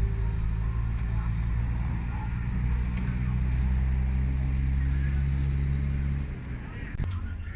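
A vehicle engine running steadily at idle, its steady hum dropping away about six seconds in, followed by a sharp click.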